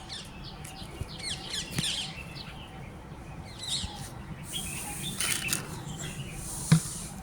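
Birds calling: rapid series of short, high chirps and squawks, clustered early on and again midway. A single sharp knock near the end.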